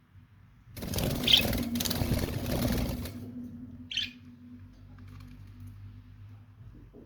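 Lovebirds: a loud rustling burst, like a flutter of wings, lasting a bit over two seconds, followed by one short, high chirp about four seconds in. A faint steady low hum underneath.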